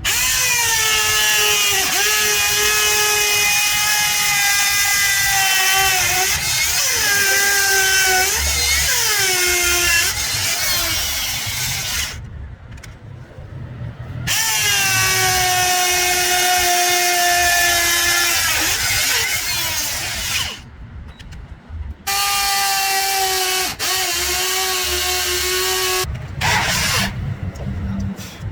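Electric power tool working wood: a motor whine with hiss, running in three long bursts with short pauses between, its pitch sagging now and then as it takes load.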